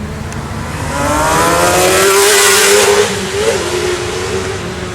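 Sport motorcycle engine accelerating past, its note climbing and growing louder to a peak about three seconds in, then dropping in pitch and fading as it goes away, over a low steady rumble.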